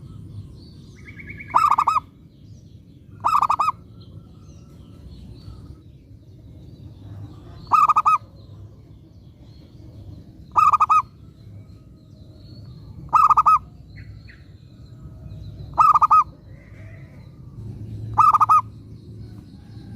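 Zebra dove (perkutut) cooing: seven short, loud, bubbling coos spaced a few seconds apart, with faint higher chirps between them.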